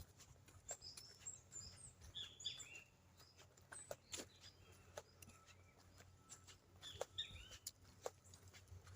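Faint birdsong: several birds chirping and calling in short notes, with scattered light clicks and a low steady background.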